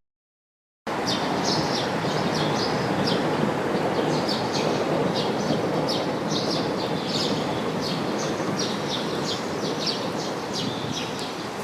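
Birds chirping in many short, high notes over a steady rushing background noise, after about a second of dead silence at the start.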